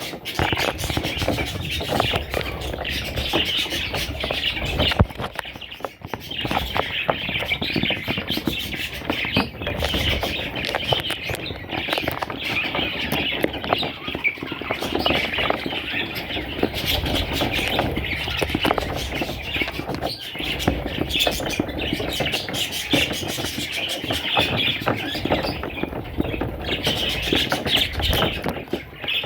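Budgerigars chirping and chattering, many at once, a dense unbroken twitter.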